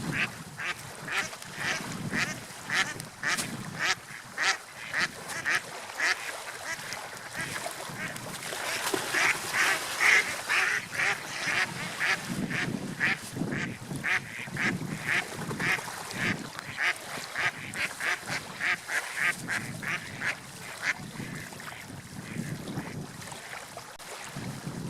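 A bird giving a long run of short, repeated calls, about two a second, loudest a little before the middle and thinning out near the end, over a low steady rushing sound of water or wind.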